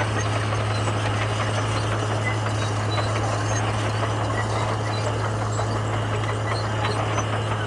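Komatsu bulldozer's diesel engine running steadily, with a constant low hum and no change in revs.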